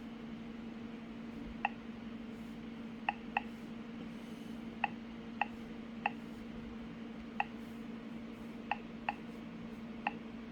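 Short electronic key-press clicks from a truck GPS navigator's touchscreen as menu items are tapped, about ten at irregular intervals, two of them close together. A steady low hum runs underneath.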